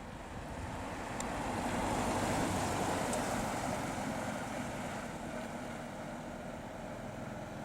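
A classic car driving past, its engine and tyre noise building to a peak about two seconds in and then fading away.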